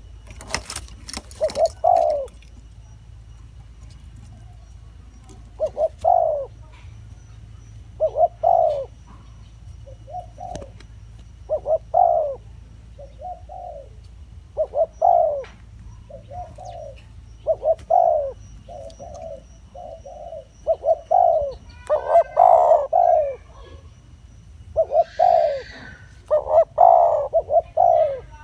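Spotted doves cooing: short, low coo notes repeated in phrases every second or two, coming thicker and overlapping toward the end. A few sharp clicks just after the start.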